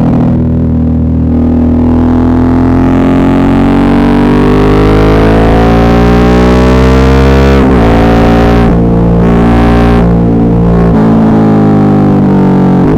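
Suzuki V-Strom 650's V-twin engine pulling under load, its pitch climbing steadily for about eight seconds, then dropping sharply at a gear change and changing again twice more near the end. Picked up by an earbud microphone.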